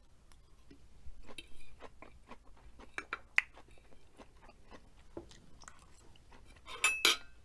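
Close-miked chewing of a mouthful of green beans with shrimp: wet mouth clicks and small crunches, with a louder, sharper burst of mouth noise near the end.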